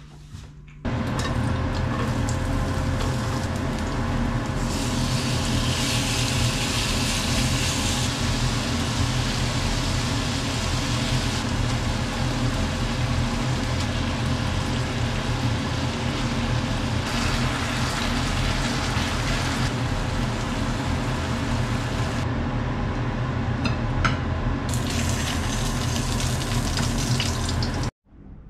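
Pork belly and kimchi sizzling in a frying pan over a steady low fan-like hum, with the sizzle growing louder and hissier in a few stretches. The sound begins abruptly about a second in and cuts off abruptly just before the end.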